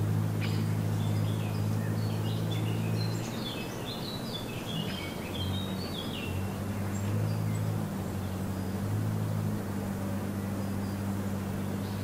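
A songbird sings a phrase of quick, high notes stepping downward over a few seconds in the middle, with a few single chips near the start. Beneath it runs a steady low hum, the loudest sound, which dips briefly a few times.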